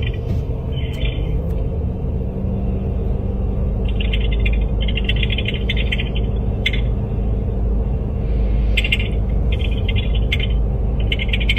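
Steady low rumble of a car idling, heard from inside the cabin through a phone's microphone. Short, high, buzzy sounds come and go on top of it.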